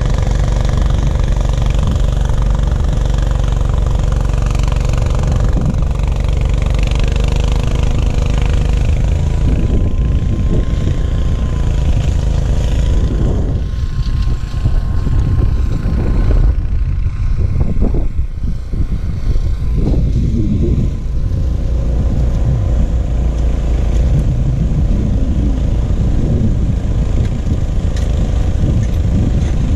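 Gravely 430's engine running steadily, driving its 38-inch snowblower. The sound thins and wavers for several seconds around the middle, then settles back to a steady run.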